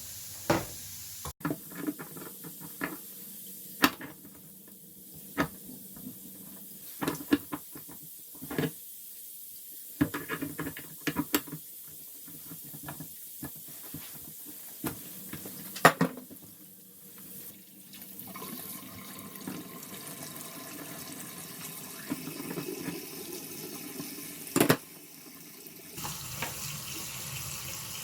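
Sharp metal clicks and knocks of a wrench working on a kitchen mixer tap's ceramic gland, then, about two-thirds of the way in, water running steadily from the tap body under mains pressure.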